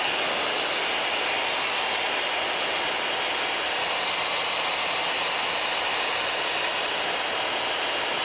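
Steady in-flight cabin noise of a Mooney M20K single-engine piston plane: the engine and airflow as a constant, even rushing hiss with a faint steady high tone in it.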